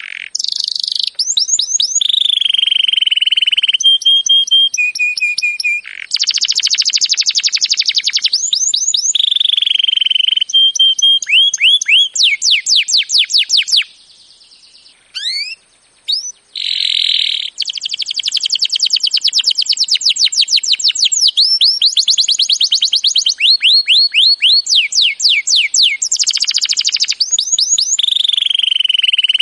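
Songbird song of the kind used as masteran for training competition birds: fast runs of rapidly repeated rising whistles, held whistled notes and buzzy trills. It breaks off briefly about halfway through, with a few lone sweeping notes, then resumes.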